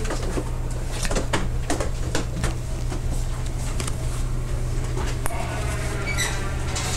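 Interior of an Odakyu 30000 series EXE Romancecar motor car: a steady low hum with scattered clicks and knocks. About six seconds in, a set of steady pitched tones starts up.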